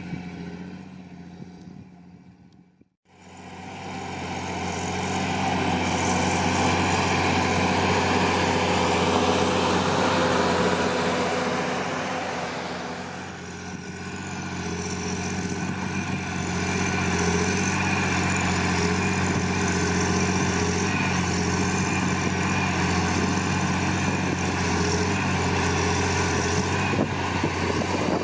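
John Deere 8520T tracked tractor's 8.1-litre PowerTech six-cylinder diesel working under load while ploughing. The sound fades right out about three seconds in, then the engine comes back up and runs steadily, easing off briefly about halfway before rising again.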